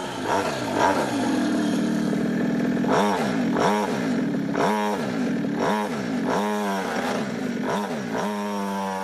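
Two-stroke engine of a Polini GP3 49cc pocket bike fitted with a big-bore cylinder, revved up and down about six times in quick rises and falls of pitch, then settling to a steady note near the end.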